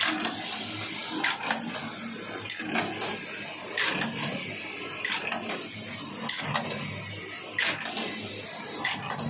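Matsuya M100 automatic knitting machine running. It makes a steady mechanical whir with a quick double clack about every 1.3 seconds, in an even rhythm.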